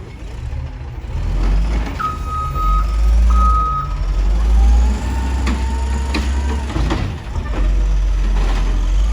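Garbage truck engine running with a steady low rumble. Its reversing alarm sounds two beeps about two seconds in, and a few knocks follow later.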